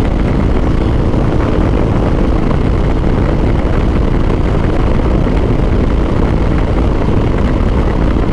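Harley-Davidson V-twin motorcycle running steadily at highway cruising speed, mixed with heavy wind noise on the action-camera microphone.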